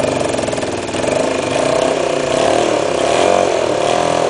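Honda CB250 twin-cylinder motorcycle engine fitted in a quad, running at tickover on only one cylinder. Its speed rises a little about halfway through and wavers near the end.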